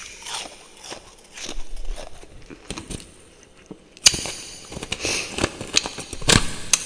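Close-miked chewing and crunching of refrozen freezer frost: scattered crackles at first, then a sharp bite about four seconds in followed by dense crunching.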